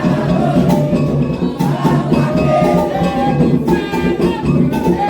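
Candomblé ritual music: a sung chant with a wavering melody over dense, continuous drumming on atabaque hand drums.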